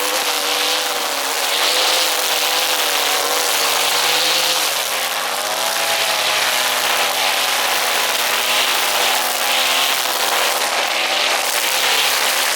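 Brush cutter engine running at high speed while cutting grass, its pitch wavering slightly and dipping a little about five seconds in.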